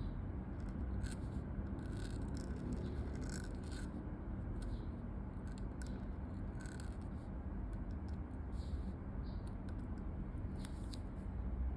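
Pen scratching across paper in quick strokes of handwriting, dense at first and sparser after about halfway, over a steady low background hum.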